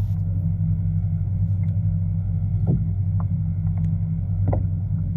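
Steady low motor hum, with a few short sharp knocks about two and a half and four and a half seconds in.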